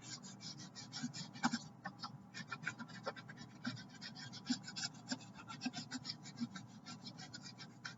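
Wax crayon rubbed back and forth over paper laid on a leaf, making a leaf-vein rubbing: a quick, steady run of short, soft scratching strokes.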